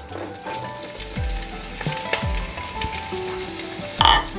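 Coconut oil sizzling steadily in a nonstick pan around mustard seeds, dried red chillies, curry leaves and green chillies, with a few soft knocks. About four seconds in, chopped onion is tipped into the hot oil and the sizzle briefly surges.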